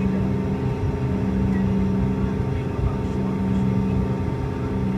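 Steady cabin drone of a Bombardier CRJ-200 in flight: its twin GE CF34 turbofans hum at constant pitch, with several steady tones over a low rumble of airflow.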